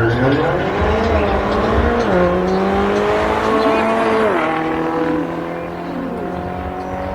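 Sports car engine accelerating hard on a drag strip. Its pitch climbs, then drops sharply at gear changes about two seconds and four seconds in.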